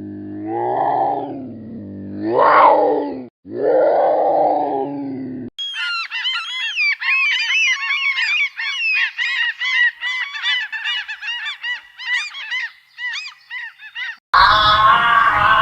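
Deep, drawn-out animal calls that slide up and down in pitch. They cut off after about five seconds and give way to a flock of birds calling in quick, overlapping, honking calls. Near the end a loud new sound starts abruptly.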